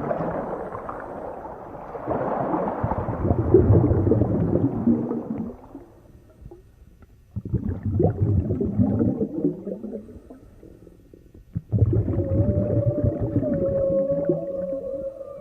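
Underwater ocean recording: surges of low rumbling, bubbling water noise broken by two quieter gaps, then, from about twelve seconds in, a long, nearly steady moaning tone.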